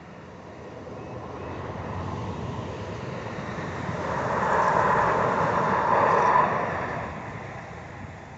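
A vehicle passing by: a steady noise that grows louder, peaks about five to six seconds in, then fades away.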